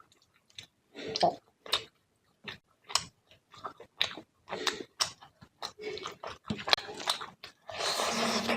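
Close-up chewing and mouth sounds of someone eating fish curry with rice: irregular wet smacks and clicks, several a second, with a longer breathy stretch near the end.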